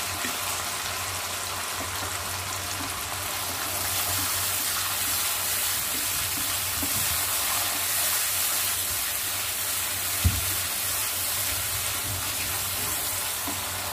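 Sauces and chopped garlic sizzling in hot oil in a non-stick wok while a wooden spatula stirs them: a steady hiss that grows brighter about four seconds in, with a single knock of the spatula about ten seconds in.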